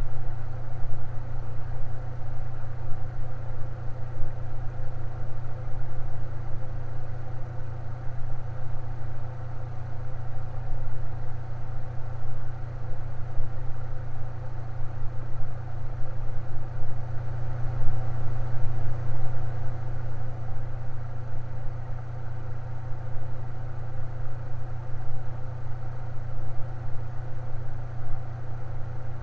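Electric fan running steadily: a strong, constant low motor hum with a fainter, even whir above it.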